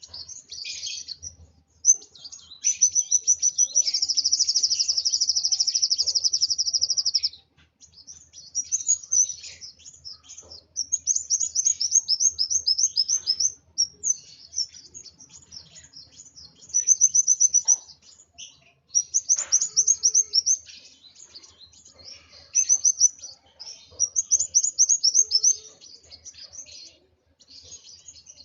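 Kolibri wulung sunbird singing in the fired-up, agitated state that keepers call emosi: rapid high trills in repeated bursts, with one long unbroken trill of about five seconds near the start and shorter trilled phrases after it.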